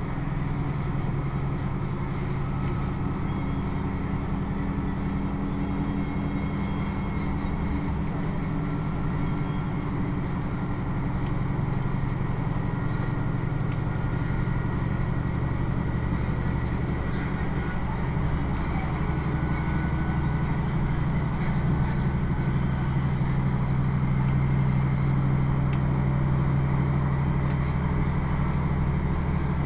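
Diesel passenger train running, heard from inside the carriage: a steady engine drone over the rumble of the wheels on the track, getting a little louder in the second half.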